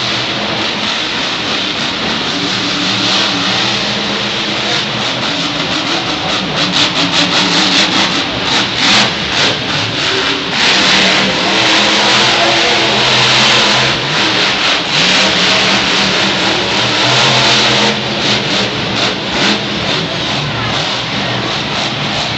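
Monster truck's supercharged V8 engine revving hard through a freestyle run, its pitch rising and falling again and again. The loudest stretch is held through the middle, with quick stabs of throttle before and after it.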